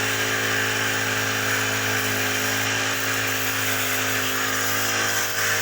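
A small electric motor running steadily with an even hum and a hiss, no change in speed.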